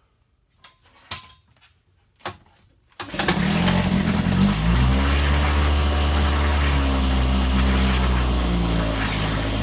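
A few clicks and knocks, then about three seconds in a 1961 Evinrude 3 hp Lightwin two-stroke twin outboard is pull-started and catches at once on the first pull from cold, running steadily after.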